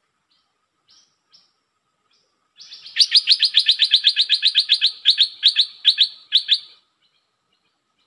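A nok dok taeng bird calling: a few soft single notes, then a loud, rapid string of sharp repeated notes, about six a second for some four seconds, which spaces out into separate notes near the end.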